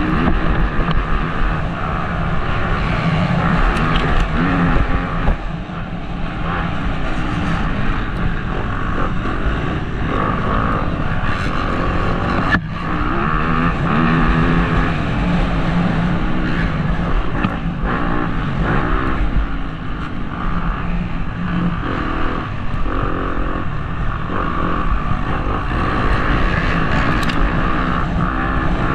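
Motocross bike engine ridden hard around a track, revving up and falling back again and again as the rider opens and shuts the throttle, heard from a helmet-mounted camera.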